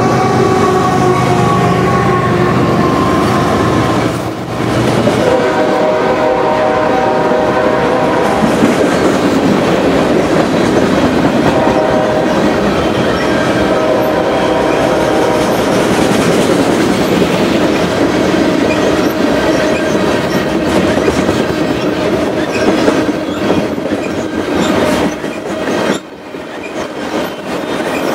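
Union Pacific freight train passing close by: the locomotive horn sounds two long blasts in the first eight seconds over the rumble of the diesel locomotives, then the freight cars roll past with steady wheel clatter and knocks over the rail joints.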